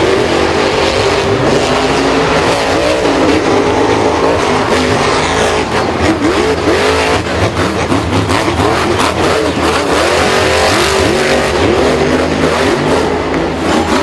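Vehicle engines revving loudly, with several overlapping pitches rising and falling over a dense haze of noise.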